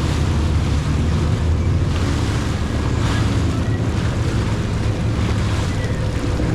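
Jet ski engine running steadily at speed, with wind buffeting the microphone and water rushing past the hull.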